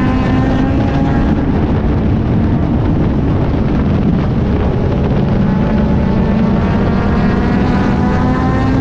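Race car engine running hard, heard from on board under heavy wind and road noise; its pitch climbs steadily over the last few seconds as the car accelerates onto the straight.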